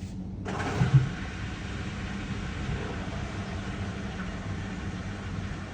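Front-loading washing machine starting its quick-wash cycle after start is pressed. A steady rushing hiss sets in about half a second in, over a low hum, with a short low thump near one second.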